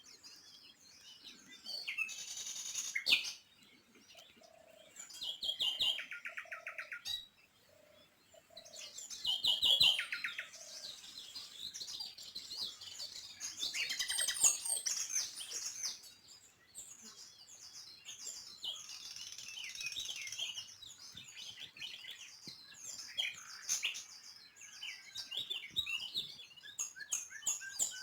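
Small birds chirping and singing in overlapping bouts: quick high chirps and fast rattling trills with short lulls between them.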